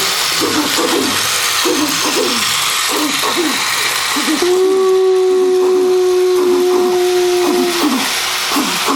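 A horn, taken for a diesel locomotive's horn, sounds one steady note for about three seconds, starting about four and a half seconds in. High-pitched voices talk throughout.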